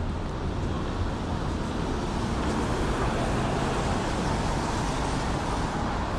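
City street traffic noise: a steady rush of passing vehicles that swells a little around the middle.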